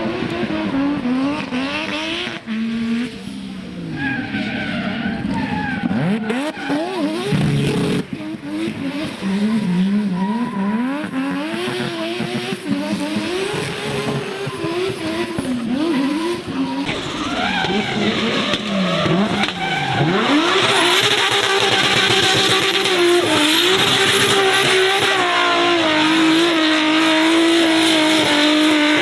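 A high-performance car engine revving up and down repeatedly while the tyres squeal as the car is powerslid. In the second half the engine holds steadier, high revs under a continuous tyre squeal.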